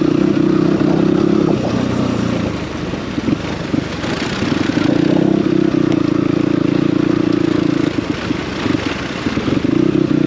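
Dirt bike engine running at a fairly steady throttle while riding, easing off twice, a couple of seconds in and again near the end, before pulling again.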